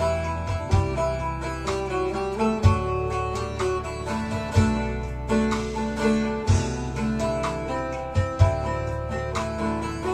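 Instrumental folk music: a bağlama plucking a melody over deep bass notes that come in about every two seconds.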